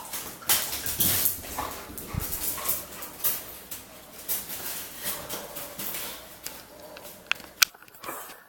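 Pit Bull–Labrador mix dog at play, snuffling and huffing in a dense run of short, irregular bursts with scuffling, and a few brief whines. A single sharp click comes near the end.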